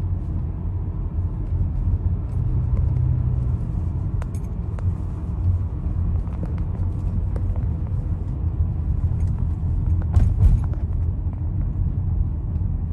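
Steady low rumble of a car driving, heard from inside the cabin: engine and tyre noise, with a few faint clicks and a brief burst of sharper clicks or rattles about ten seconds in.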